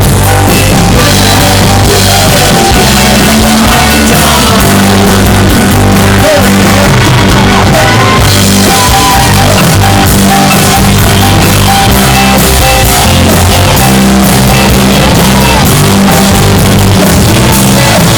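Live rock band playing, with drums and bass and some singing, recorded so loud that the sound is distorted.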